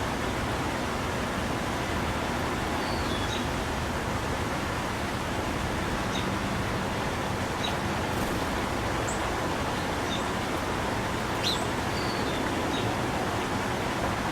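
Small wild birds giving short, scattered chirps over a steady, even background noise that is the loudest thing throughout.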